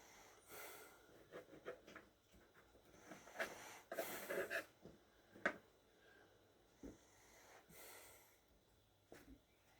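A knife trimming slices of bread: quiet short scraping cuts and a few light taps on the board.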